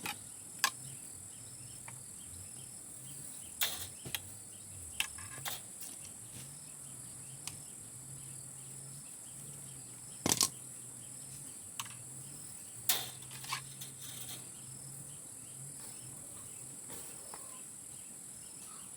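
Steady high-pitched drone of crickets or similar insects, with scattered sharp clicks and knocks, the loudest about ten and thirteen seconds in.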